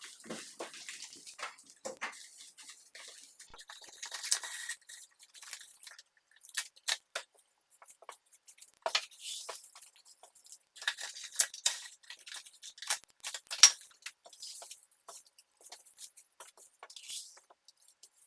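Irregular light clicks and taps of small hard objects being handled, with a short noisy stretch about four seconds in.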